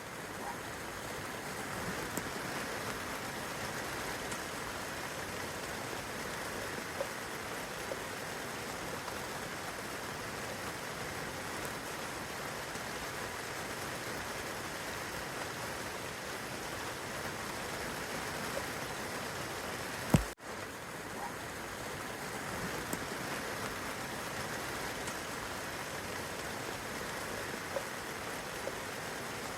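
Steady rain falling on the leaves, branches and grass of a garden, an even hiss with a few faint drips. About twenty seconds in, a single sharp pop with a split-second dropout breaks the sound.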